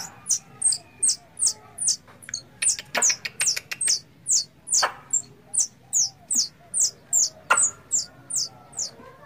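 Squirrel call used to lure squirrels for hunting: a steady run of short, high, downward-sliding chirps, about three a second, with a few sharp clicks mixed in.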